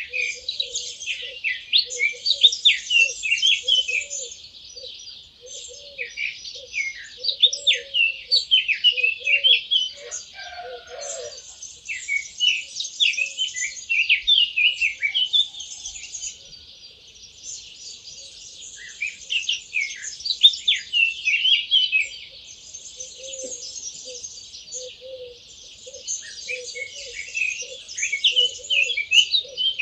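Dawn chorus: many songbirds singing at once in dense, overlapping high chirps and trills. Through the first third and again near the end, a lower call repeats quickly, a few notes a second.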